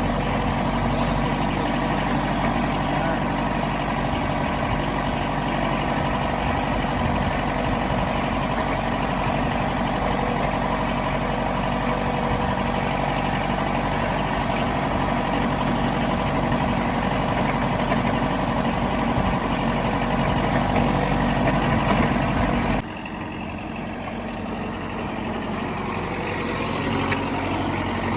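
Truck engine running steadily. About 23 seconds in it cuts suddenly to a quieter engine sound that slowly grows louder, with a single short click near the end.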